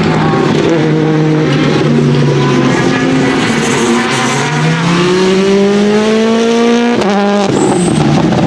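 Citroen C3 WRC Plus rally car's turbocharged four-cylinder engine being driven hard. The engine note steps up and down between gears, then climbs in a long rising rev that cuts off sharply about seven seconds in before settling to a lower note.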